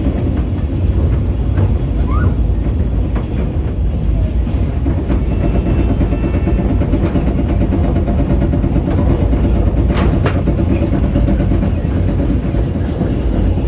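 Passenger train running along the track: a steady, loud low rumble of wheels on rails, with a single sharp click about ten seconds in.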